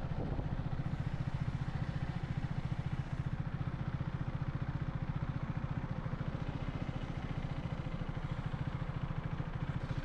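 KTM 390 Duke's single-cylinder engine running steadily, an even rapid pulsing exhaust note.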